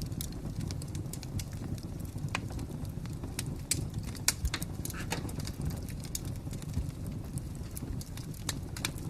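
Fire crackling: a low steady rumble of burning with sharp, irregular pops and snaps, the loudest a little over four seconds in.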